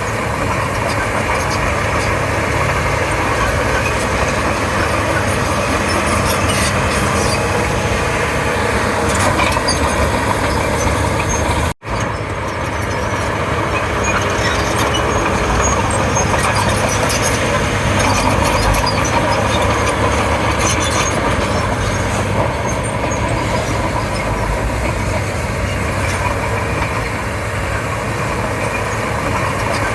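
Komatsu D31P crawler bulldozer's diesel engine running steadily as the machine works. The sound drops out for an instant about twelve seconds in.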